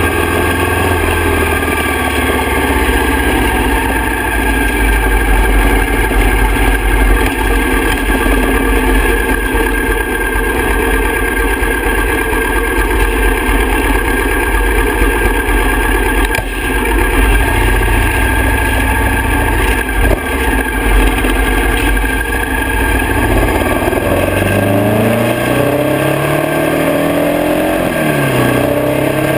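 Harley-Davidson V-twin motorcycle engine running steadily at low speed. About 24 seconds in it accelerates, its pitch rising, dips briefly at a gear change near the end, then climbs again.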